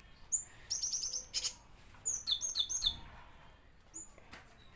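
Gelatik batu (cinereous tit) calling: short high chirps in quick runs of four or five notes, each note dropping in pitch, with a single chirp near the end.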